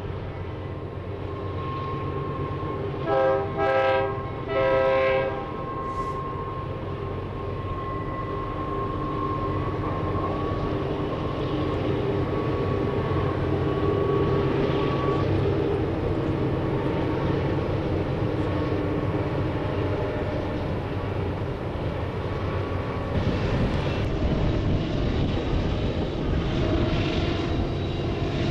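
A horn with several tones sounding together gives three short blasts a few seconds in, over a steady low rumble that carries on throughout.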